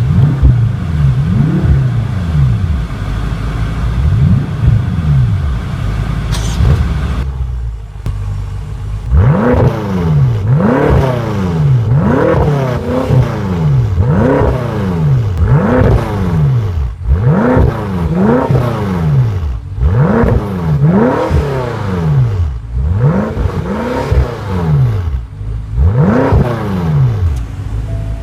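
A 2014 BMW M5's twin-turbocharged 4.4-litre V8 running just after start-up, revved over and over in short throttle blips. Each blip sharply raises and drops the engine note; in the second half there are about a dozen, roughly one every second and a half.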